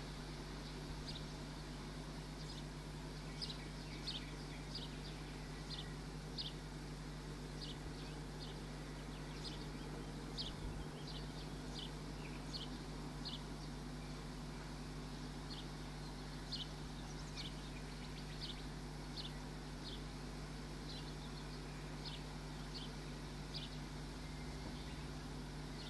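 Small bird chirping: short, high chirps repeated irregularly, about one or two a second, over a steady low hum.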